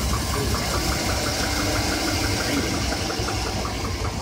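2007 Chevy Avalanche V8 idling with a steady, evenly spaced knock, several strikes a second. The knock comes with the engine cold and goes away as it warms; the mechanic can't say whether it is piston slap or carbon buildup on the pistons.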